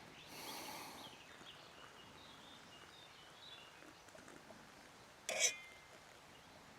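Quiet woodland ambience with faint, scattered bird chirps, and one short sharp noise about five seconds in.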